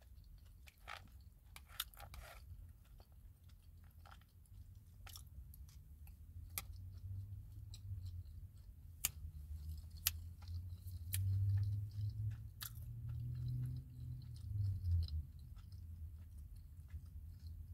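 Close-miked chewing of food with the mouth closed: wet mouth clicks and smacks scattered throughout, over a low rumble that grows louder in the second half.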